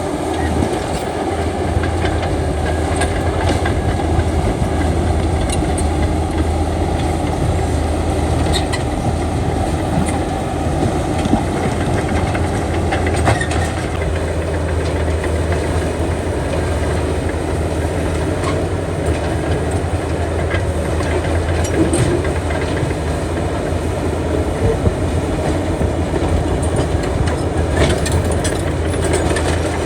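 Heavy diesel earthmoving machinery running steadily with a deep drone, with scattered clanks and knocks over it.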